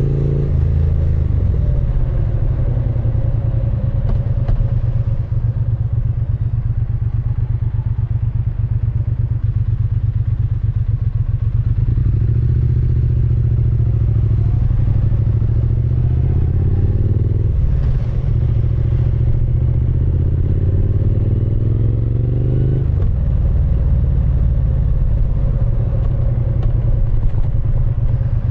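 Triumph Speed Twin 900's 900 cc parallel-twin engine and exhaust under way, running steadily, then pulling up in pitch twice with a sharp break between pulls, like gear changes while accelerating.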